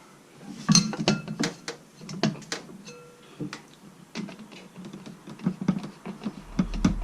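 Irregular metallic clinks and knocks of hand tools and parts being handled while working on engine-bay fittings, a few of them ringing briefly.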